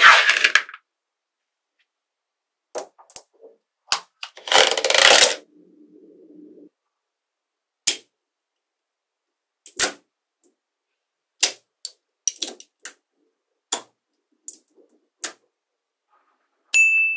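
Small magnetic balls snapping together: sharp single clicks a second or two apart, with two short rattling bursts of many balls clacking at once, near the start and about five seconds in.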